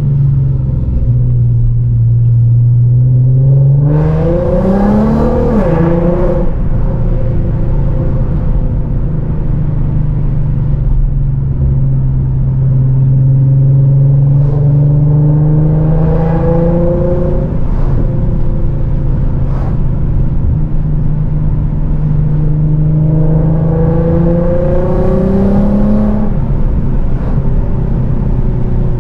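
Infiniti G37's naturally aspirated 3.7-litre VQ37VHR V6 engine and exhaust running while driving. It revs up with a rising note about four seconds in, then drops back as the car shifts. The pitch climbs slowly and drops twice more, about seventeen seconds in and again near the end, with steady cruising between.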